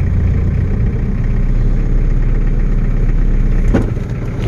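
Ford Ranger's cold diesel engine running at low speed as the pickup creeps forward, not yet warmed up, its oil pressure still coming up slowly. The low rumble eases near the end with a brief click.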